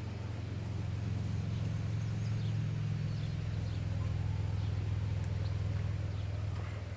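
Norfolk Southern freight train rolling past with a steady low rumble, and faint bird chirps above it.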